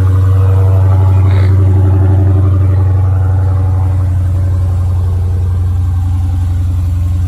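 Dodge Challenger Scat Pack's 6.4-litre HEMI V8 idling steadily, a deep even rumble.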